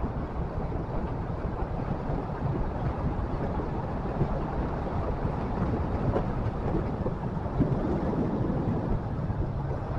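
Motorcycle engine running steadily while riding, with wind rushing over the microphone and a few light knocks in the second half.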